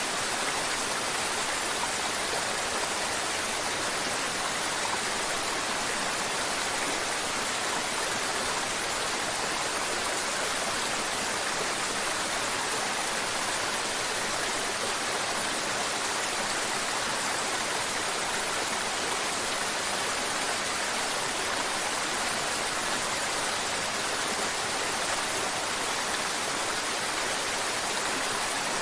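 Mountain river water flowing and splashing over rocks, a steady, even rush with no change.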